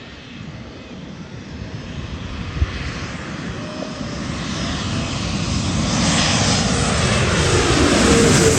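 Jet airliner engines growing steadily louder as the plane approaches and passes low overhead, the whine dropping in pitch as it goes by near the end. A single sharp knock about two and a half seconds in.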